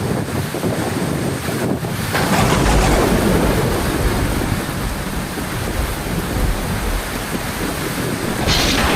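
Heavy rain pouring steadily, with a sudden crash of thunder about two seconds in that rumbles away over a second or so, and another thunderclap starting near the end.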